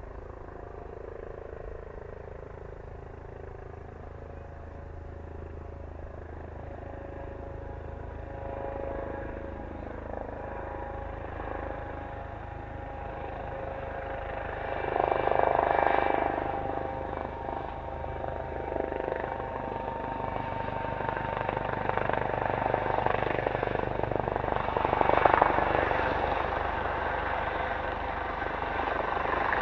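Eurocopter AS365N3 Dauphin twin-turbine helicopter approaching, its rotor and engine sound growing steadily louder, with a loud swell about halfway through and another near the end.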